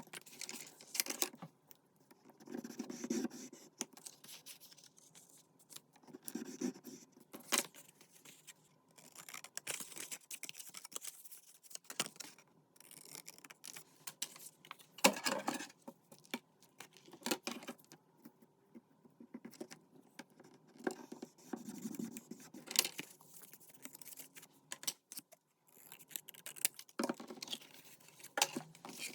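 Paper-craft handling sounds: paper and card being handled, cut and rubbed, with scattered sharp clicks and taps and short stretches of rustling and scraping.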